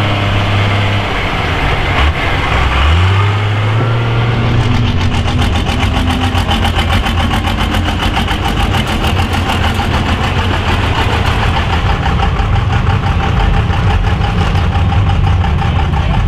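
Off-road mud truck engine idling, revving up about three seconds in, then running steadily with a fast, even pulse.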